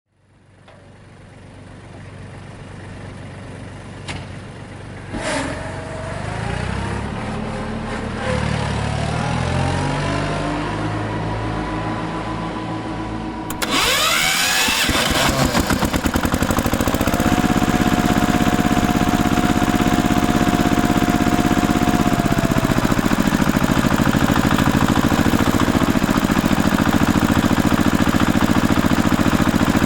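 Tractor engine running: it fades in and its pitch climbs over the first several seconds, then about halfway through it turns abruptly louder and runs steadily, with a brief rise and fall in pitch a little later.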